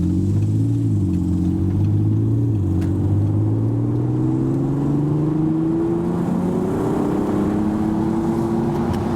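Audi TT's 3.2-litre V6 through a Magnaflow aftermarket exhaust, heard from inside the cabin while pulling away down the road. The engine note rises, drops once at a gear change about two and a half seconds in, then climbs steadily as the car accelerates.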